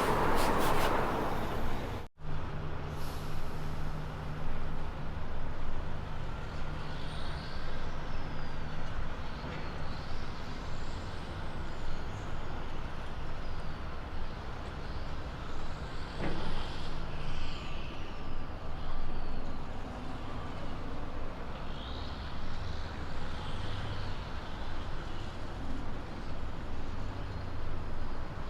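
Kenworth K200 road train going by, loud at first. After a cut about two seconds in, a truck engine runs steadily at a distance, with one sharp click partway through.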